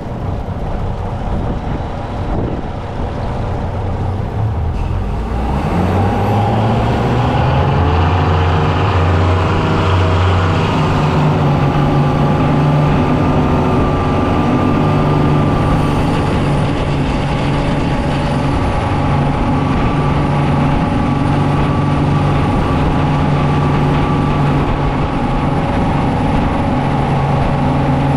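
Yamaha 300 V6 outboard being throttled up under load: about five seconds in its pitch climbs for several seconds as the boat gets on plane, then it runs steadily at high revs. It is being run hard to check fuel pressure for a high-RPM stalling problem, and it keeps running with no stall.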